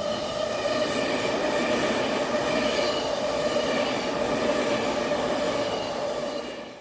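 Shinkansen train running, a steady high whine over the rolling noise, fading in at the start and out near the end.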